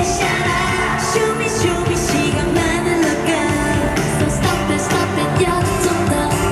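K-pop dance-pop song with singing, played loud and steady over a live stage sound system.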